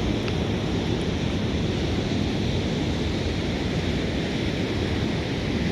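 Steady rushing of water with no breaks or distinct splashes.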